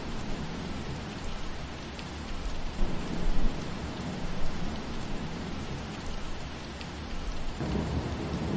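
Steady rain falling through trees, with scattered drops ticking and a low rumble underneath that swells near the end.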